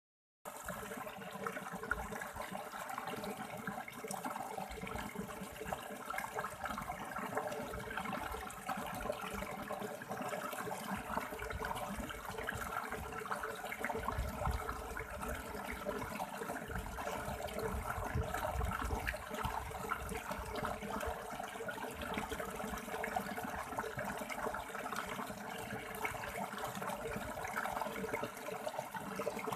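River water flowing and splashing over rocks: a steady rush with constant small bubbling and splashing.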